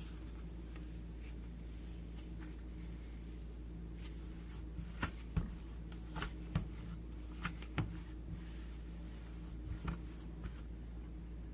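Cloud slime being handled, giving irregular soft crackles and small pops, most of them in the second half, over a low steady electrical hum.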